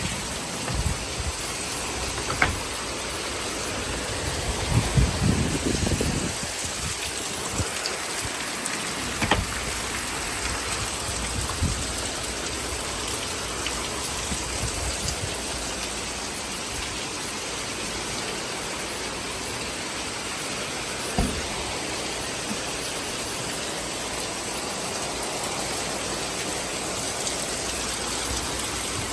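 Heavy rain pouring steadily, with a few short low thumps along the way.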